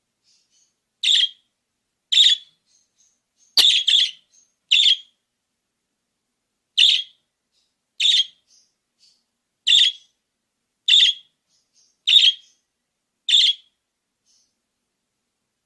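Budgerigar giving short, sharp chirps, one about every second, with a quick double chirp about three and a half seconds in.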